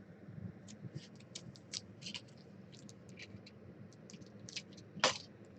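Trading cards being handled: a string of light clicks and small scrapes, with one louder swish of a card sliding about five seconds in.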